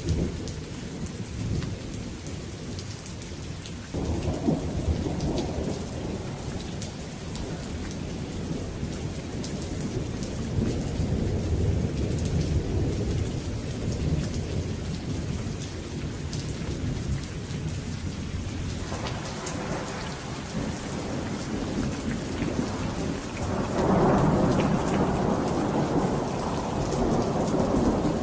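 Thunderstorm recording: steady rain pattering, with low rolling thunder that swells about four seconds in, again past the middle, and is loudest near the end.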